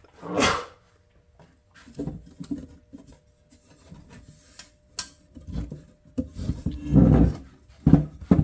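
Handling noises from fitting a device's case back together: a scrape near the start, a sharp click about five seconds in, then a run of rubbing, clatter and knocks toward the end as the parts resist going together.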